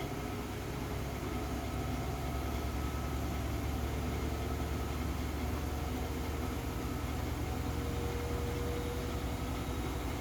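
Siemens i-Dos washing machine running a wool/delicate programme: a steady low motor hum as the drum turns, with a faint whine that rises slightly in pitch partway through.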